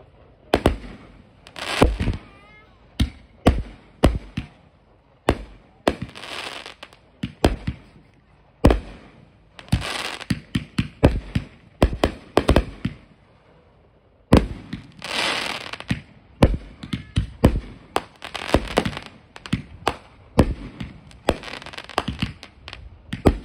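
Aerial fireworks bursting overhead: an irregular run of loud bangs, many followed by a spray of crackling, with short lulls about a third of the way in and just past halfway.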